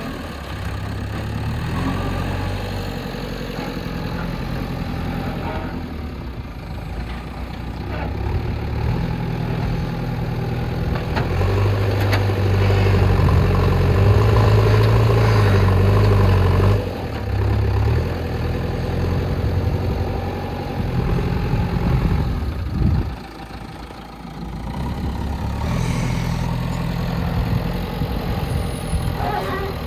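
JCB backhoe loader's diesel engine working under changing load as it digs and loads soil, revving up and dropping back. It runs hardest about halfway through, cuts back suddenly, and later drops off briefly before picking up again.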